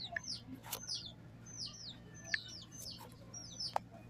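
Birds chirping faintly: a run of short, high chirps, each sliding downward, several a second. A couple of sharp clicks and a low steady hum sit under them.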